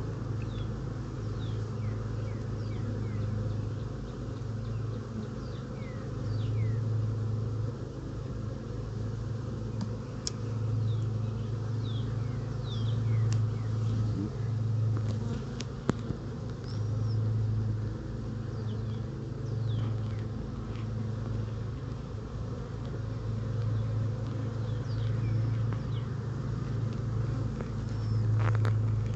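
Honeybees from a freshly hived swarm buzzing around the open hive, a steady hum that swells and fades every second or two as bees fly past.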